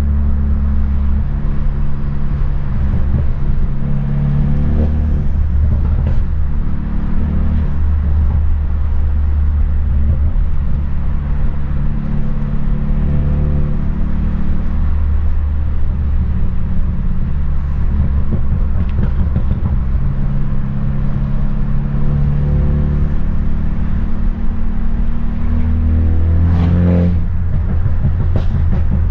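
Straight-piped, tuned BMW F30 328i four-cylinder turbo engine and exhaust droning loudly under way, heard from inside the car, its pitch shifting slightly as the driver changes speed. Near the end the revs rise briefly, with a sharp crack.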